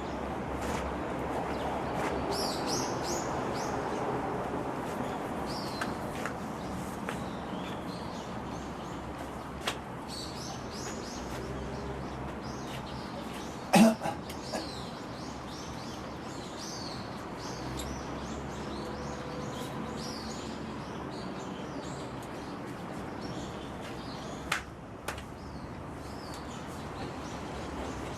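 Small birds chirping and twittering in many short, high calls over a steady low background rumble. A sharp knock about halfway through is the loudest sound, with a smaller knock near the end.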